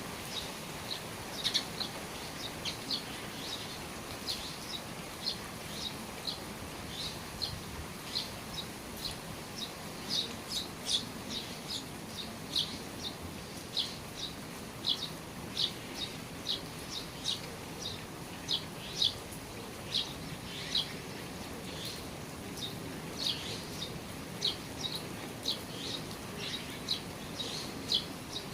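A bird calling with short, high chirps, about two a second, over the steady hiss of rain falling on the eaves.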